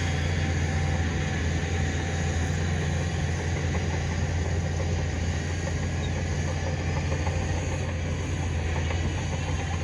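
Heavy diesel engine of earthmoving machinery running steadily, a constant low drone without changes in speed.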